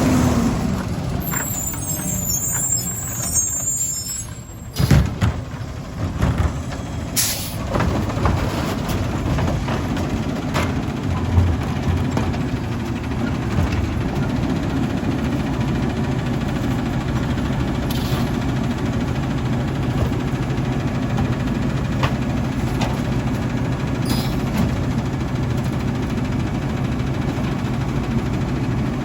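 Autocar ACX garbage truck's diesel engine running steadily, with loud clunks about five seconds in and a sharp hiss of the air brakes a couple of seconds later.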